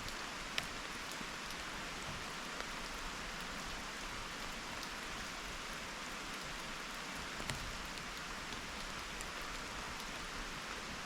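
Steady rain falling, with a few sharp ticks standing out, the loudest about half a second in.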